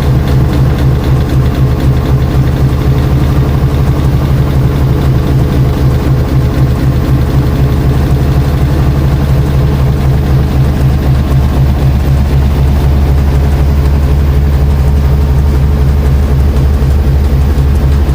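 Washing machine motor running with a loud, steady low hum and a fast even pulse.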